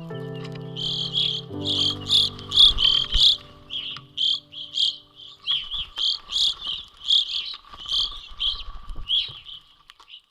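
Repeated high chirping calls, about two a second and uneven in spacing, over soft music that fades out in the first few seconds.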